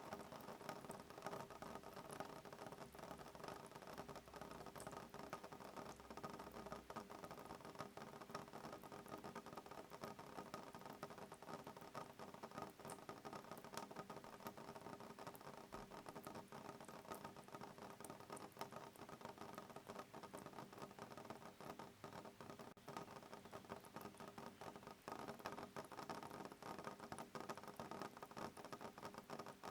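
Soft rain pattering on a window pane: a steady, dense stream of small drop ticks, with no thunder.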